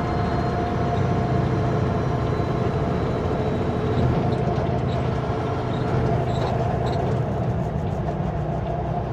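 Kenworth W900L semi truck's diesel engine running steadily under way, with road noise.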